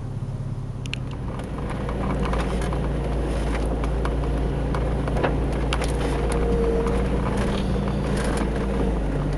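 4x4's engine running steadily and working harder about two seconds in, with scattered crackles and clicks over it.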